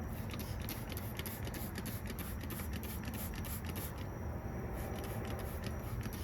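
Rapid short scraping strokes on the STIHL 020T chainsaw's body as caked grime is scraped off, with a brief pause about four seconds in.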